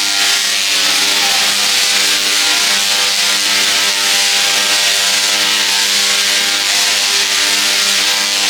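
A loud, steady machine noise: a rushing hiss with a constant hum under it, unchanging throughout.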